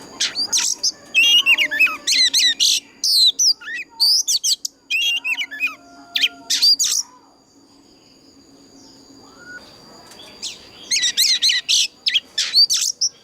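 A mature wild oriental magpie-robin singing, rapid runs of varied sweeping whistles and chirps. It sings in two bouts, with a pause of about three seconds in the middle.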